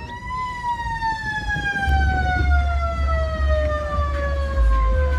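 A siren tone that rises briefly and then slowly falls in pitch over several seconds, as if winding down. Heavy bass from music comes in about two seconds in.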